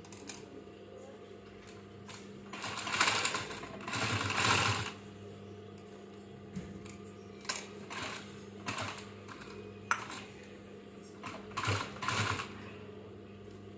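Short bursts of mechanical clattering, two longer runs near the start and one near the end, with several brief clicks and knocks between them, over a steady low hum.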